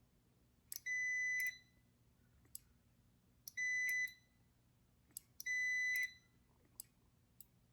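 A multimeter's continuity beeper sounds three times, a steady high beep of about half a second each, and each beep follows a sharp click of a furnace pressure switch's micro switch. Several other clicks of the switch come with no beep: the switch clicks but its contacts do not close every time, so the pressure switch is faulty.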